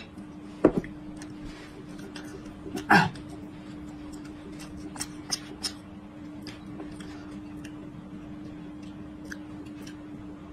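Close-miked eating sounds of raw peeled garlic being bitten and chewed: many small crisp crunches and wet mouth clicks, with two louder bites or mouth noises about a second and three seconds in. A steady low hum runs underneath.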